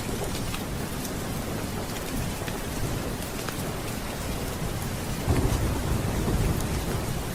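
Steady heavy rain, with a low rumble of thunder rolling in about five seconds in.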